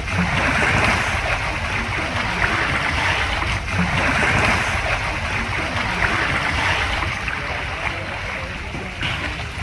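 Rushing, splashing water, a steady wash with many small splashes through it over a low rumble.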